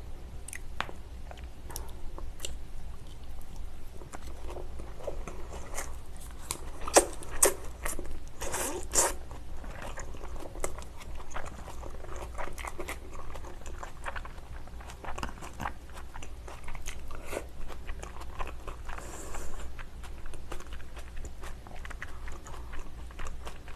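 Close-up mouth sounds of a person chewing salmon sushi: wet smacking and sticky clicks as the raw fish and rice are chewed, with a busier stretch of louder smacks about a third of the way in.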